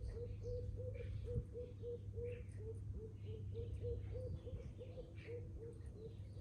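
Garden birds chattering, with scattered short chirps over a steady series of low, evenly spaced notes about three a second and a low background hum.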